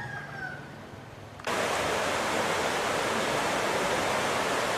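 Steady rushing of a river's flowing water, cutting in suddenly about one and a half seconds in after a faint, quiet start.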